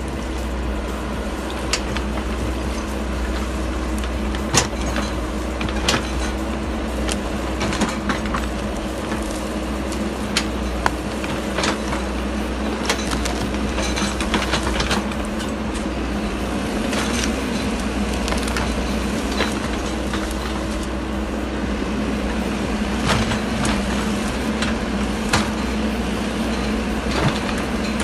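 Wacker Neuson mini excavator's diesel engine running steadily under load, with frequent sharp knocks and clanks from the digging work scattered throughout.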